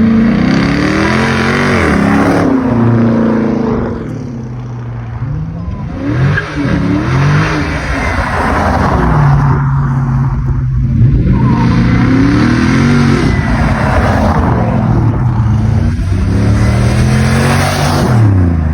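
Car engine revved several times, its pitch climbing and dropping back, then settling to a steady lower note between revs.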